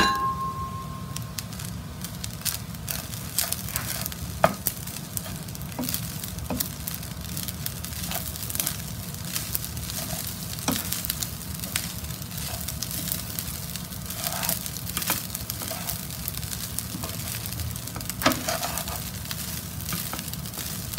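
Fried rice with vegetables and chicken sizzling in a nonstick frying pan while a wooden spatula stirs and turns it, with scattered scrapes and taps of the spatula in the pan. A sharp knock with a brief ring comes right at the start.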